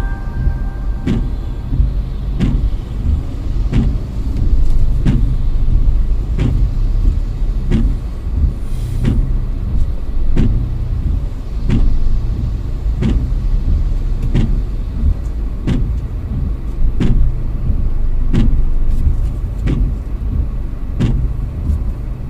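Car driving, heard from inside the cabin: a steady low road-and-engine rumble with a short click repeating about every 0.7 seconds.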